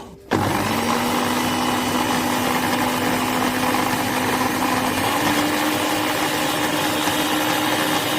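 Philips HR2221-series blender motor switched on and running steadily; its hum steps up slightly in pitch about five seconds in.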